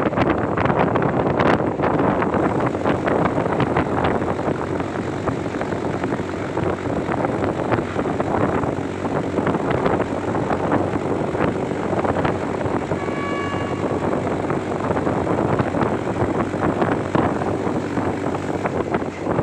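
Train running on the rails: a steady rumble with a rapid, irregular clatter of wheels on track. A brief high tone sounds about 13 seconds in.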